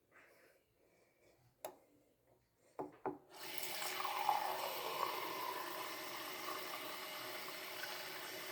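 A few faint clicks, then a kitchen tap turned on about three seconds in, water running steadily into a measuring cup.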